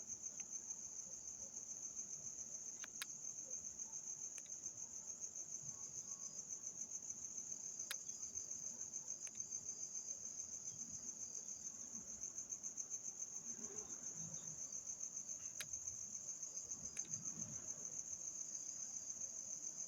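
Insects chirring: a steady high-pitched trill that pulses rapidly, with a few faint sharp clicks scattered through it.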